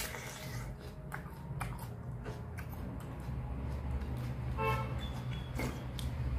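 Wet chewing, lip smacks and fingers squishing soaked rice on a plate, heard as many short clicks, over a steady low rumble of traffic. A vehicle horn toots once briefly a little under five seconds in.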